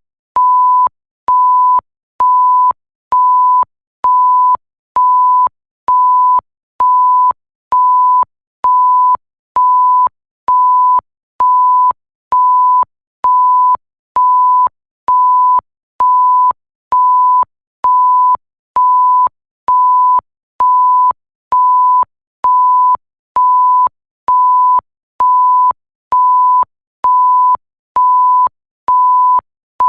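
A 1 kHz censor bleep tone repeating at about one beep a second, each beep about half a second long and a single pure pitch, with a slight click as each one starts and stops.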